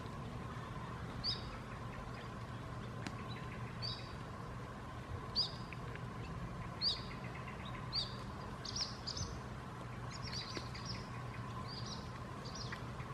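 A small bird chirping repeatedly outdoors, short high chirps every second or two that come closer together in the second half, over a steady low background hum.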